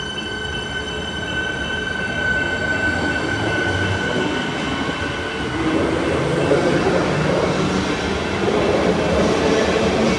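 Electric suburban train approaching and running past on the track. A steady high tone fades about halfway through as the rumble of the wheels on the rails grows louder.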